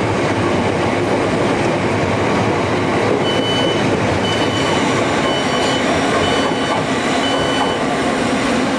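Southeastern Electrostar electric multiple unit pulling out of the platform, its carriages running past with a steady rumble. From about three seconds in, five short high beeps sound about a second apart.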